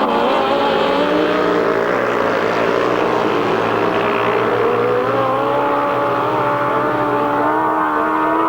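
Several grasstrack sidecar outfits racing at full throttle, their engine notes wavering up and down as they accelerate and ease off, settling into a steadier, slowly rising note over the last few seconds.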